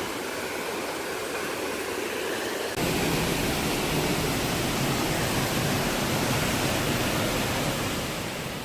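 Waterfall: a steady, heavy rush of falling water. About three seconds in, a cut brings a fuller, deeper rush, and it fades away near the end.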